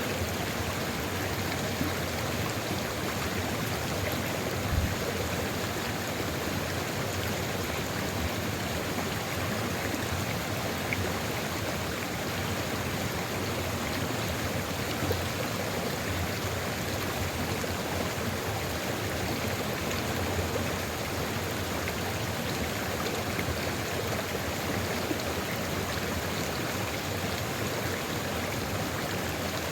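Sulfur river water flowing in a steady, unbroken rush. A brief low thump comes about five seconds in.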